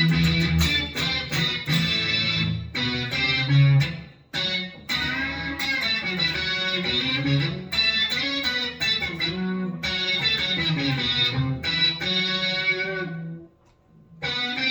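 Electric guitar played through a Boss SY-200 guitar synth pedal on its "Synth Brass" preset: a melodic phrase of brass-like synth notes, with a short break at about four seconds and another just before the end.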